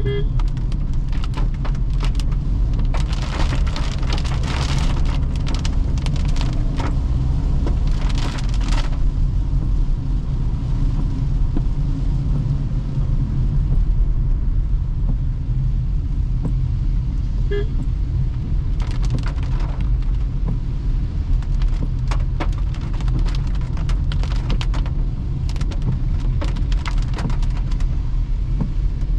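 Toyota Hyryder hybrid SUV driving on a wet road in rain: a steady low road and tyre rumble, with spells of crackling rain spatter on the car coming and going.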